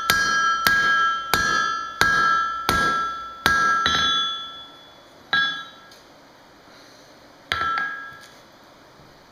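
Hand hammer striking steel on an anvil while drawing out a point, each blow followed by a bright anvil ring: six blows at an even pace of about one and a half a second, then two slower single blows with pauses between.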